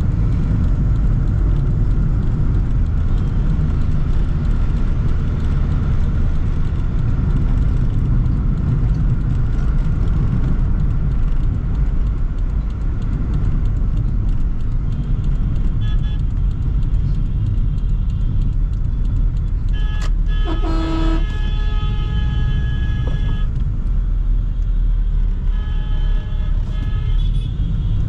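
Steady low road and engine rumble of a Toyota Sprinter AE110 on the move, with vehicle horns honking: a short toot just past halfway, a longer blast about two-thirds of the way in, and more honks near the end.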